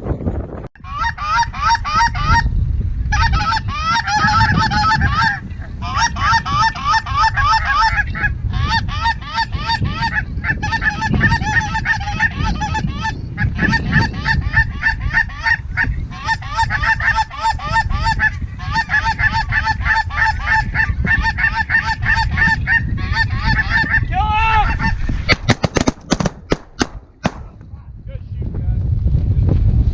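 A large flock of geese honking and yelping nonstop over low wind rumble. Near the end the calling stops and several sharp cracks come in quick succession, a shotgun volley.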